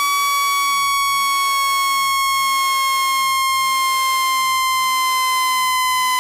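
Electronic speaker-cleaning tone meant to shake water out of a phone speaker: one steady, loud, pure tone that slides slowly lower in pitch, with thin overtones above it.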